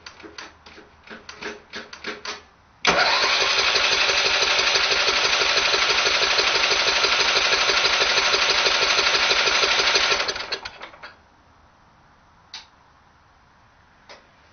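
A few quick clicks as the primer is pumped, then the 10 hp Tecumseh go-kart engine is cranked by its electric starter for about seven seconds with an even, rapid pulsing before it winds down. It never fires: the cold engine will not start on full choke.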